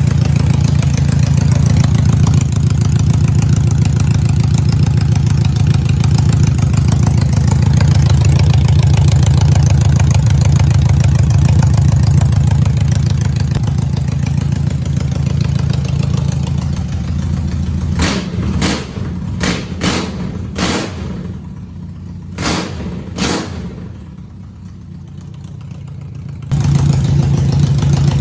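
BMW K1's four-cylinder engine idling steadily through an aftermarket exhaust. Later it turns uneven, with several sharp cracks and the sound falling off, before a steady idle comes back abruptly near the end.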